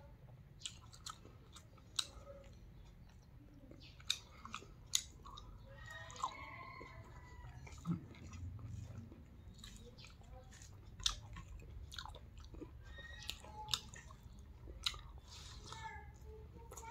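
Close-up chewing and mouth smacking of a person eating rice and soup greens by hand, with irregular sharp wet clicks scattered through.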